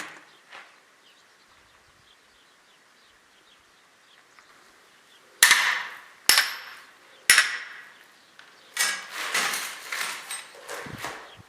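Hammer blows. One strike right at the start, then after a quiet pause three sharp blows about a second apart, followed by a quicker, irregular run of knocks and clattering near the end.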